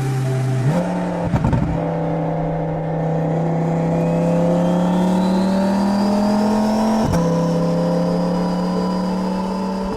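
Turbocharged Audi R8 engine pulling under load, with a high turbo whistle rising steadily in pitch from about two seconds in and then holding. The engine note steps up about a second in, with a few sharp knocks just after, climbs slowly, and breaks briefly about seven seconds in.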